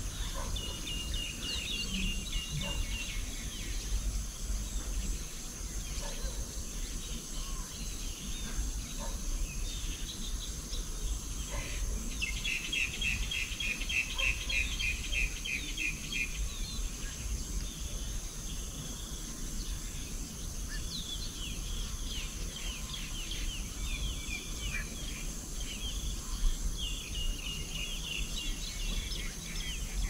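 Small birds chirping and calling, with two fast trills of rapidly repeated high notes, one near the start and a longer one midway, and a run of quick chirps near the end. Underneath is a steady high insect drone and a low rumble of wind.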